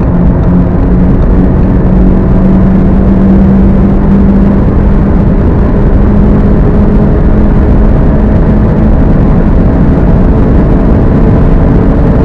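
A 2.0-litre turbocharged four-cylinder car engine pulling hard in a high gear at high speed. Its tone holds nearly steady and climbs only slowly, under a loud rush of road and wind noise.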